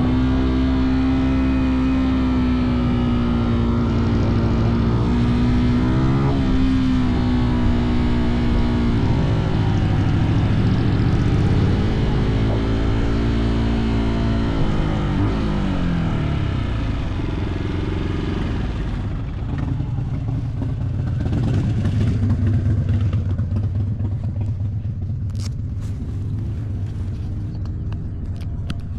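Fantic Caballero 125's single-cylinder four-stroke engine under way, its pitch climbing and dropping with throttle and gear changes. In the last third it settles to a lower, steady rumble as the bike slows, with a few sharp clicks near the end.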